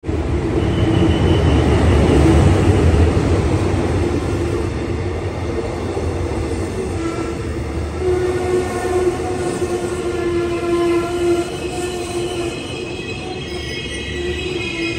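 A Hitachi diesel-electric locomotive passes close by with a loud low rumble in the first few seconds. Its passenger coaches then roll past, wheels running on the rails, with a steady high pitched squeal from about seven seconds in.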